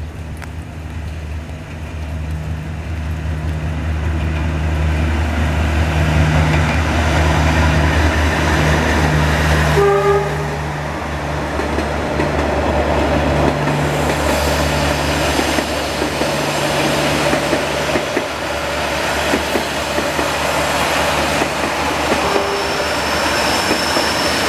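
Diesel-hauled passenger train passing: the locomotive's engine drone builds as it approaches, it gives a short horn toot about ten seconds in, and then the carriages roll past with a steady rumble and clatter of wheels on rail.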